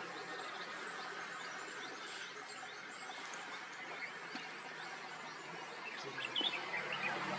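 Outdoor field ambience of many small birds chirping and calling over a steady hiss. A louder cluster of quick chirps comes about six seconds in.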